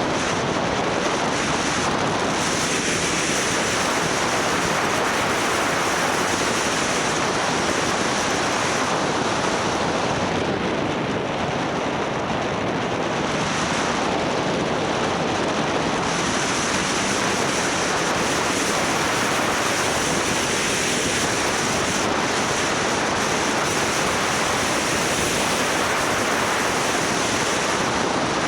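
Steady wind rushing over the microphone of a camera on a moving motorbike, a loud, even rush with no clear engine note.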